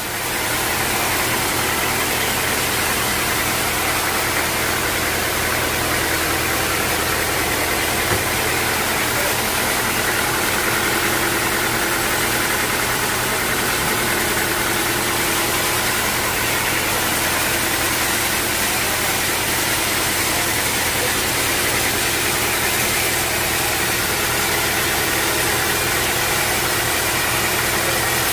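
Sawmill machinery running steadily: a constant machine drone with a dense hiss over it, starting up at the very beginning.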